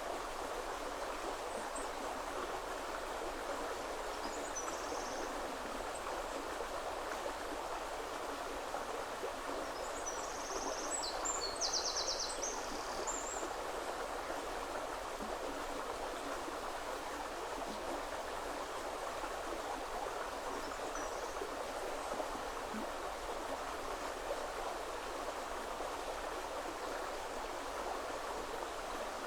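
A woodland river flowing with a steady rush of water. A few short, high bird calls come over it, and a brief burst of birdsong about ten to thirteen seconds in is the loudest moment.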